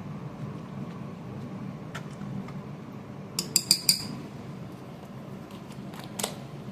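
A metal utensil clinking against a pot several times in quick succession about three and a half seconds in, and once more near the end, over a steady low hum.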